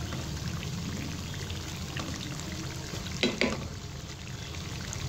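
Besan-coated potato patties shallow-frying in hot cooking oil, a steady sizzle. A brief knock of a utensil about three seconds in is the loudest moment.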